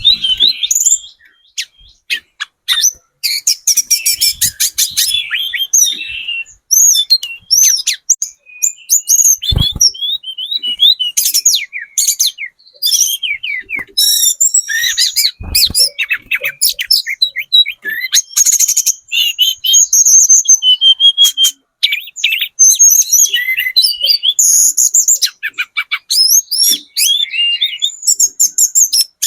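Hill blue flycatcher singing a fast, varied song of high chirps, whistled glides and rapid trills in near-continuous phrases with short pauses. Two brief low thumps cut in about ten and fifteen seconds in.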